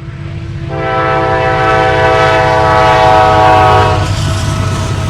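Diesel freight locomotive sounding its multi-note air horn in one long blast of about three seconds, starting just under a second in, over the steady rumble of the locomotive engines.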